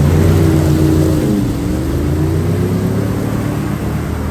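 A motor vehicle's engine running under load, its pitch dipping about a second and a half in and then rising again.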